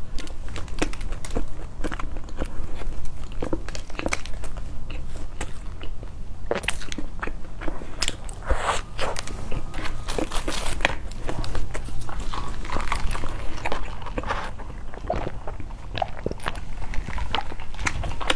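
Close-miked chewing and biting of a crusty-topped sweet bread bun: irregular crunchy clicks and wet mouth sounds, with a busier stretch of crunching about halfway through.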